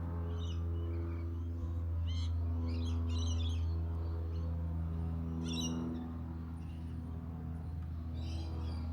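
Robotic lawn mower running with a steady low hum, while birds chirp in short bursts several times over it.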